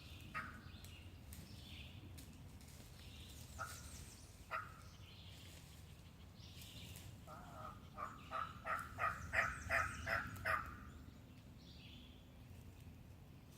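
A hunter's turkey call sounding a hen yelp sequence: a run of about ten evenly spaced yelps over some three seconds, starting a little past halfway. A few single short call notes come earlier, and small birds chirp in the background.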